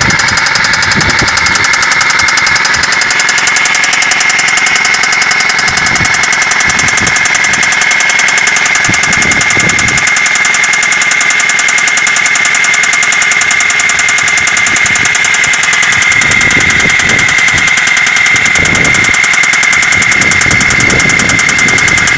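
Suzuki Grand Vitara engine running with a loud, rapid, even knocking and a steady high whine. It is a new, terrible-sounding knock that appeared after the car stalled and smoke came from under the bonnet.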